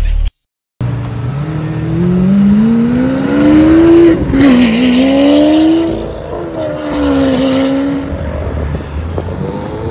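Lamborghini Aventador V12 accelerating hard, its pitch climbing, dropping at an upshift about four seconds in, climbing again, then falling away. A moment of music cuts off just before the engine starts.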